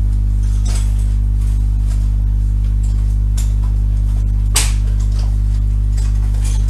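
Pencil crayon strokes scratching on paper, a few short strokes at a time, with a sharper tap about two-thirds of the way through, over a loud steady electrical hum.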